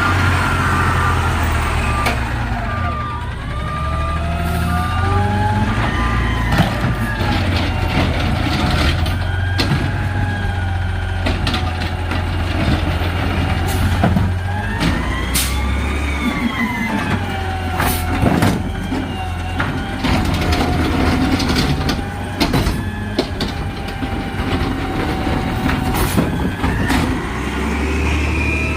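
Garbage truck running, its engine revving up and down with a whine that rises and falls, and scattered sharp clanks. A reversing beeper sounds steadily through about the first six seconds.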